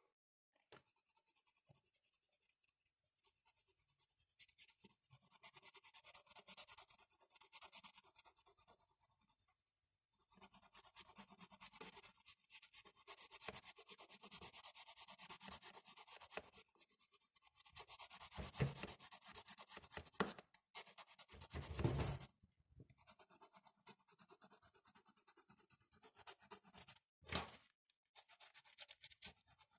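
Drawing strokes scratching on paper, quick back-and-forth shading in runs that are densest in the middle. A dull thump comes about two-thirds of the way through and a sharp tap near the end.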